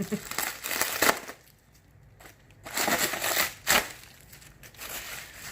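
Packing material and cardboard rustling and crinkling as parts are dug out of a parts box, in two spells of about a second each.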